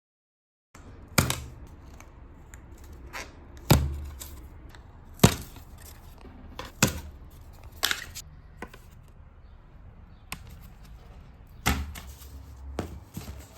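Household handling sounds in a small room: about eight sharp, separate knocks and clicks spaced a second or two apart, over a faint background.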